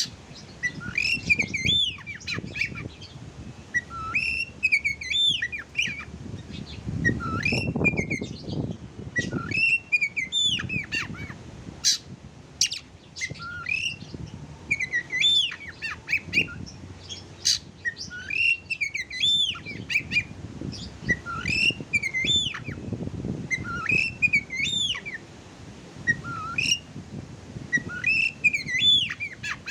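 Oriental magpie-robin (kacer) singing: short whistled phrases of rising and falling notes, repeated every second or two. This is the slow song material played to provoke other magpie-robins into singing.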